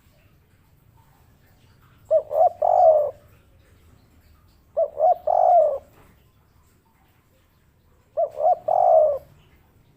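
Spotted dove (tekukur) cooing its three-note 'kuk 3' call three times, about three seconds apart: each call is two short coos followed by a longer, falling coo.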